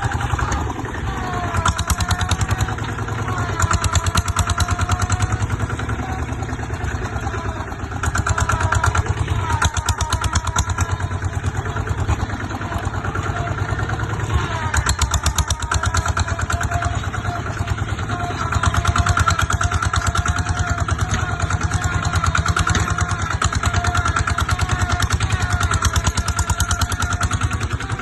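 Kubota ZT140 single-cylinder diesel of a two-wheel tractor running with a fast, even chugging, its loudness swelling and easing several times as the throttle changes.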